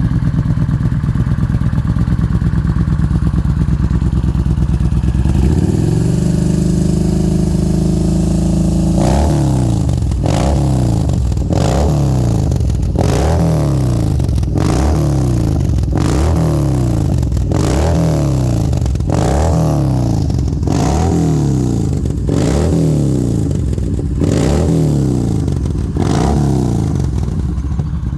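Yamaha XV950 Bolt's air-cooled V-twin running through an aftermarket ceramic black exhaust: it idles, is held at raised revs for a few seconds, then is blipped a dozen or so times, about one every one and a half seconds, each rev falling back toward idle.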